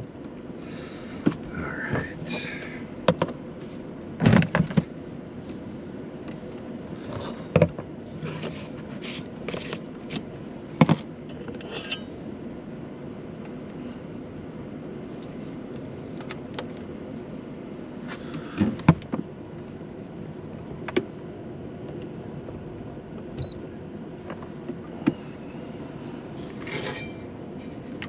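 Cups and kitchen things being handled while making coffee: scattered sharp knocks and short clatters over a steady low hum.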